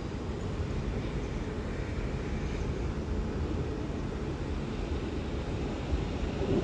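A Class 350 Desiro electric multiple unit pulling out of the station, with a steady low rumble of wheels and traction equipment and a faint high whine.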